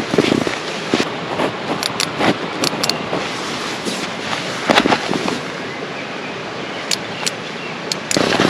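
Creek water rushing steadily, with sharp crackling pops scattered irregularly through it.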